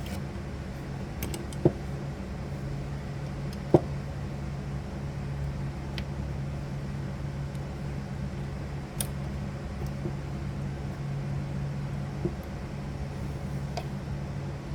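Small metal clicks as the springs are hooked back onto a pinball score reel, two sharp ones near the start and a few fainter ones later, over a steady low hum.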